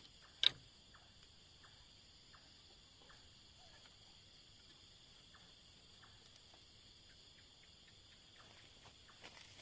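Faint, steady high-pitched chorus of night insects. A single sharp click about half a second in, and scattered faint ticks.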